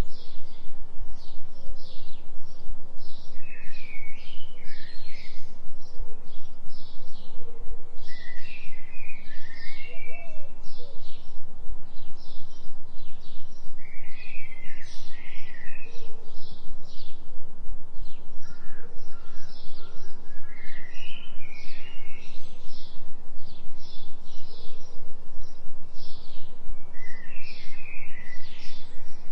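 Forest bird ambience: rapid high chirping runs throughout, and a songbird sings a short phrase about every six seconds. Under it is a steady low tone, the delta-wave binaural beat.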